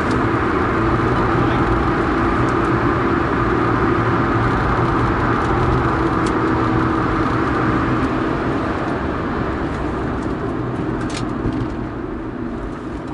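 Cabin noise of a first-generation Honda Insight at racing speed: its 1.0-litre three-cylinder engine drones steadily under road and wind noise, easing off slightly near the end.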